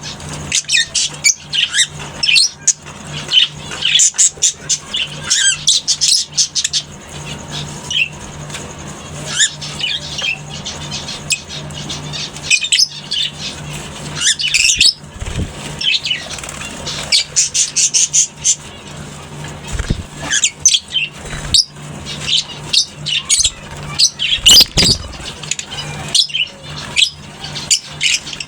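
A colony of lovebirds chattering: many shrill chirps and squawks overlapping without pause, over a steady low hum.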